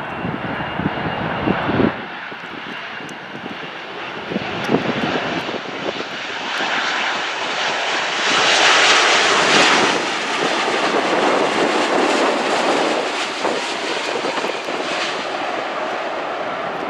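Jet airliner passing close by: the engine roar swells to its loudest just past the middle and stays loud, with a faint high turbine whine early on. Wind buffets the microphone in the first couple of seconds.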